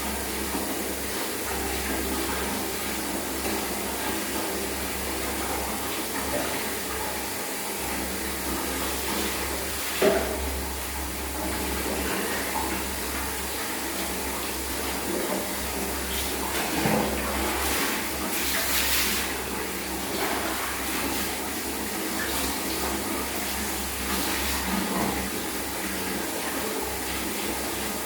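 Water running steadily as a kitten is bathed, with a sharp knock about ten seconds in.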